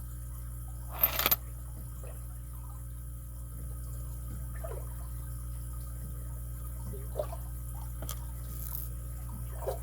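Light clicks and ticks from handling the small parts of a disassembled pin-tumbler padlock, with a sharp cluster of clicks about a second in and a few faint ticks later, over a steady low background hum.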